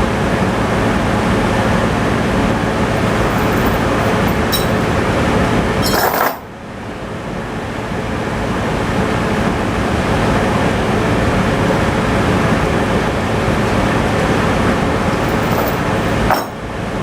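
Tractor engine running steadily, with metal clinks and clanks over it. The sharpest clank comes about six seconds in and another near the end.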